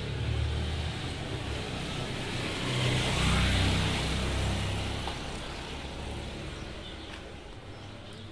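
A road vehicle passing by: a low rumble and tyre hiss that swell to a peak about three seconds in, then slowly fade away.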